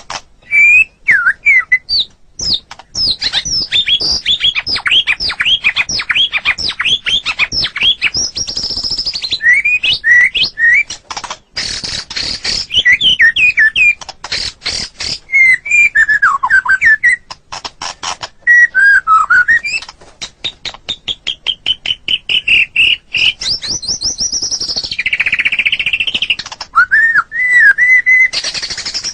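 White-rumped shama singing a long, varied song with hardly a pause: fast runs of short chirping notes, rising and falling whistled sweeps, and a rapid trill about two-thirds of the way in.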